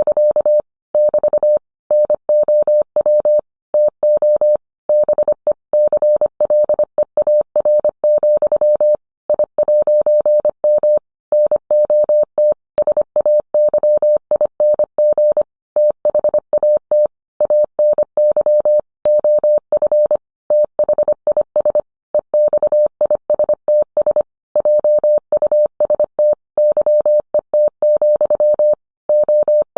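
Morse code: a single steady mid-pitched tone keyed on and off in quick dots and dashes, with short pauses between words.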